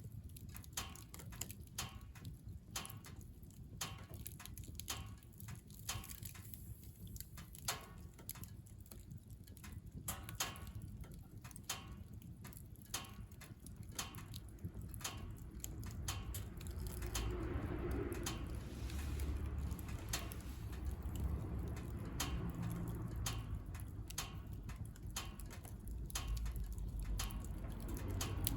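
Wood fire burning in a wood stove, crackling with irregular sharp pops. A low rumble comes in and grows about halfway through.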